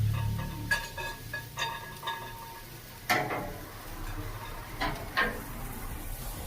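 Metal tongs clinking against a grill grate while meat is moved: a run of light ringing clinks in the first couple of seconds, then a few sharper single knocks.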